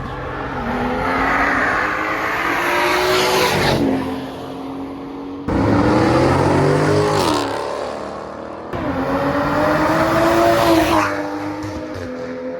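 High-performance car engines accelerating hard in three separate runs. Each time the engine note climbs for a couple of seconds and then drops away, with abrupt cuts between the runs.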